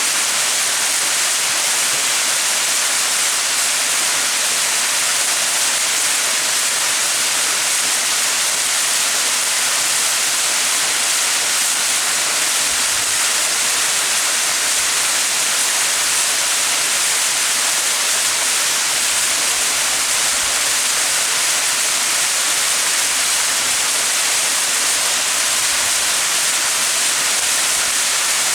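Small mountain waterfall splashing: a steady, even rush of falling water with a bright, hissy top and little low end.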